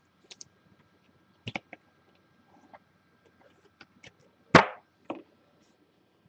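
Trading cards being handled: a few scattered light clicks and taps, with one sharper slap about four and a half seconds in and a smaller one just after.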